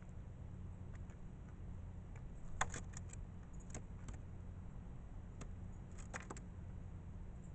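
Steady low wind rumble with a few quick clusters of sharp little clicks and taps, about two and a half seconds in and again around six seconds in.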